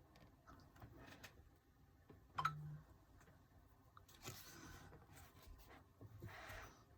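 Faint handling noises of album packaging: a sharp click about two and a half seconds in, then two soft stretches of paper and plastic rustling in the second half.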